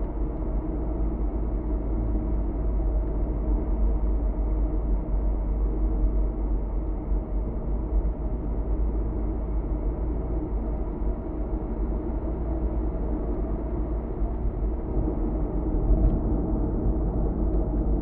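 Steady low road rumble and engine hum of a car driving on an expressway, heard from inside the cabin.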